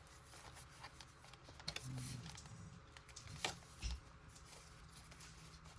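Faint handling of paper craft materials: light rustles and scattered small taps, with one sharper tap a little past halfway followed by a soft thump.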